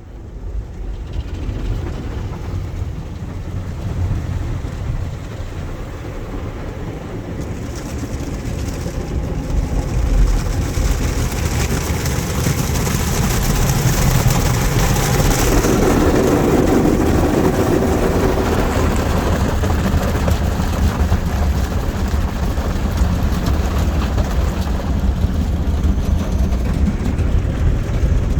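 Ryko SoftGloss XS automatic car wash running its wash cycle over the car, heard from inside the car as a steady mechanical rumble that grows louder. A higher hiss comes in about eight seconds in and drops away around fifteen seconds.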